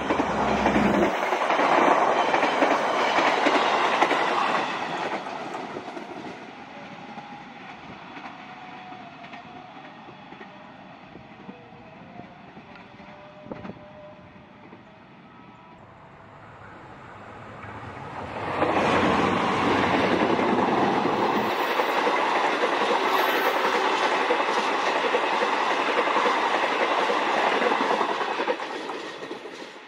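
Passenger trains passing at speed. A train's coaches rattle past and fade within the first few seconds, and after a quiet stretch a second train sets in suddenly, passing close with the clickety-clack of wheels on the rails before fading near the end.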